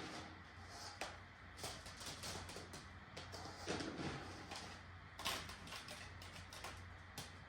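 Scattered light clicks and knocks of small items being handled, over a steady low hum.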